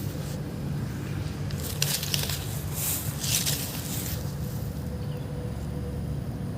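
Nakamura TB33 two-stroke brush cutter running steadily while cutting grass. From about two to four seconds in there is a stretch of hissing, swishing noise as it goes through the grass.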